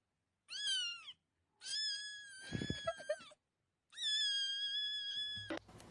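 A cat meowing three times: a short rising-and-falling meow, then two long, drawn-out, high-pitched meows.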